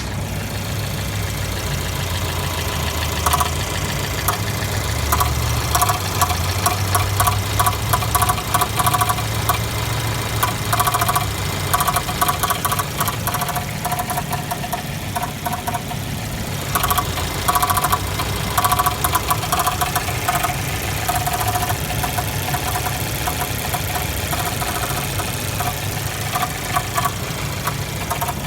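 Jeep Renegade 1.4L turbocharged four-cylinder engine running steadily, with a rapid, irregular clicking-knocking noise that comes and goes in spells. This is a recurring engine noise whose cause the Jeep dealer has not found.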